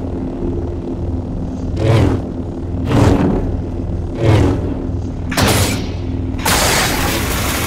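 NeoPixel lightsaber sound font playing: the blade's steady low hum with four swing whooshes, about a second apart. Near the end a harsher, hissing crackle takes over from the hum.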